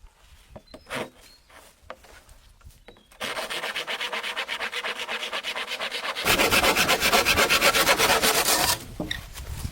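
A hand tool working bamboo in fast, even rubbing strokes, like sawing or rasping. It starts about three seconds in after a few light knocks, gets louder about six seconds in, and stops shortly before the end.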